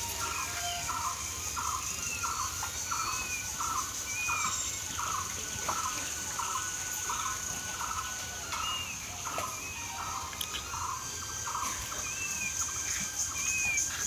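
A bird calling in a long, even series of short notes, about two a second, with another bird giving occasional brief arched chirps and a steady high-pitched buzz behind.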